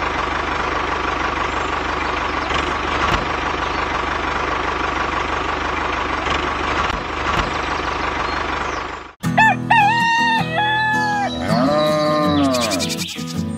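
An engine running steadily for about nine seconds, cut off abruptly. Then a rooster crows over background music.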